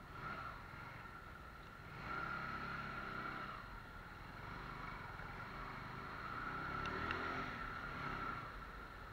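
Bajaj Pulsar 150's single-cylinder engine running under way, swelling and rising about two seconds in and again around seven seconds, over a steady hiss.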